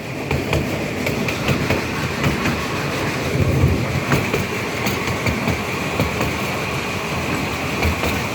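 Steam locomotive No. 98 working hard as the train runs along, a dense steady running noise with scattered clicks of wheels over rail joints.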